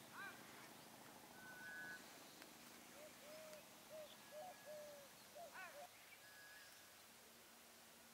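Faint bird calls over a soft steady hiss: a run of short low rising-and-falling calls about three to five seconds in, a couple of higher arched calls near the start and again around five and a half seconds, and a few thin held whistles.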